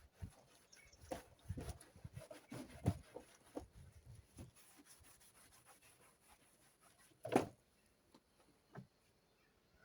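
Hand rubbing and scrubbing strokes on an RC model airplane's body as it is cleaned, irregular and scratchy for the first few seconds. A single louder knock comes about seven seconds in, with little after it.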